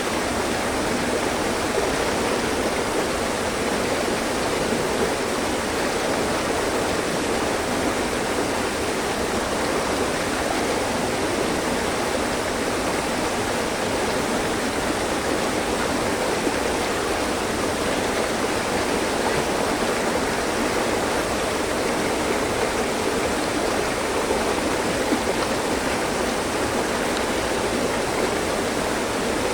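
Mountain stream with clear water flowing over rocks, a steady, even rushing.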